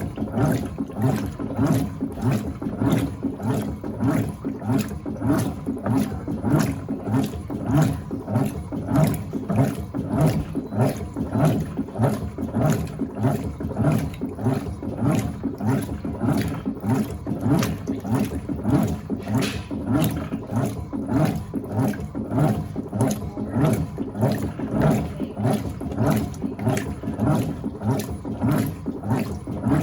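Electrolux Turbo Acqua Jet LTA15 top-loading washing machine agitating during the fabric-softener rinse: its agitator churns the water back and forth in a steady rhythmic swish, a couple of strokes a second.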